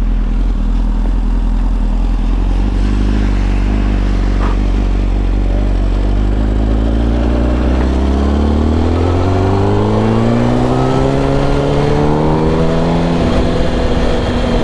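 Yamaha R1 sport bike's inline-four engine running at a steady speed, then revving up in one long rising pull in the second half before levelling off near the end.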